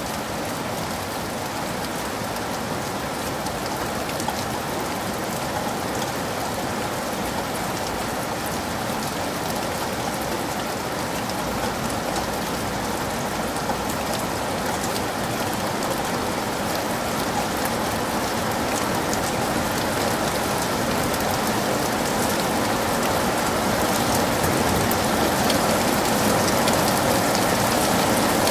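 Heavy rain falling steadily, a dense hiss flecked with the ticks of individual drops, growing slightly louder toward the end.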